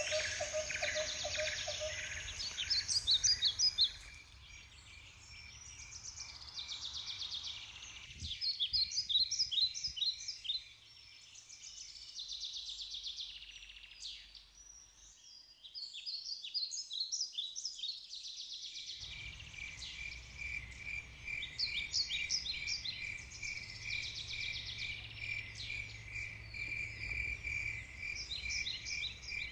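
Songbirds singing in short, high chirps and trills. A rapid, even pulsing trill typical of a cricket or other insect sounds at the start and returns about two-thirds of the way through, running on steadily under the birdsong.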